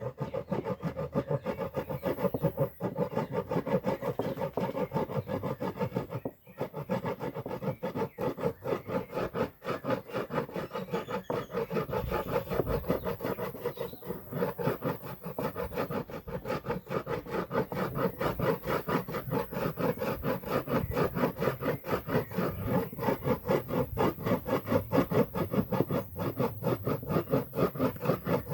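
A hand tool rubbing back and forth on wood in quick, even strokes that keep going steadily.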